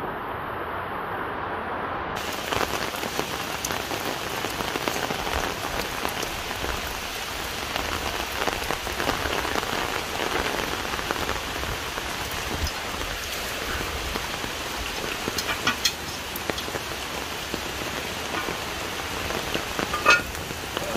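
Steady rain falling on wet ground and foliage, with a few sharper ticks and knocks late on.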